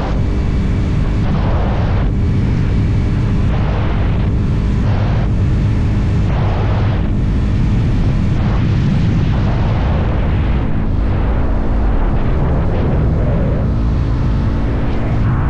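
Motorcycle engine running at a steady cruising speed, with heavy wind rushing and buffeting over the microphone.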